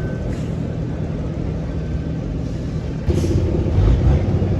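Heavy truck's diesel engine running under load, a steady low drone that gets louder about three seconds in.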